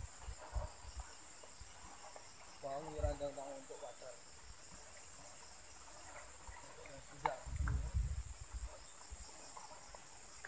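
Chorus of insects, a steady high-pitched buzz pulsing rapidly.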